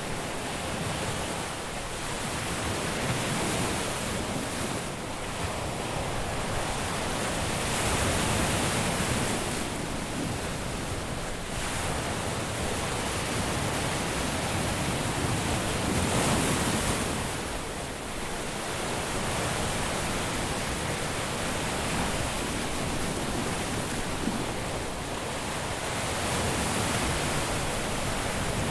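Caribbean surf breaking on a sandy beach: a continuous wash of waves that swells louder as each one breaks, strongest about 8 and 16 seconds in.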